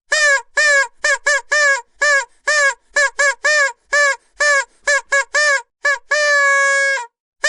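Vuvuzela blown in a rapid series of short toots, each bending up and then down in pitch, followed by one long held note about a second long near the end.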